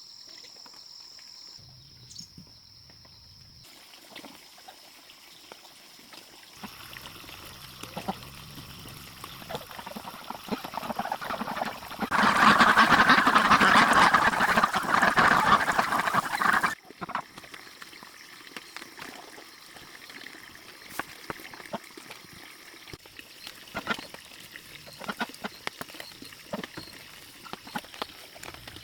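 A flock of ducks quacking, loudest in a dense burst of several seconds around the middle that stops abruptly. Quieter scattered clicks and rustles come before and after.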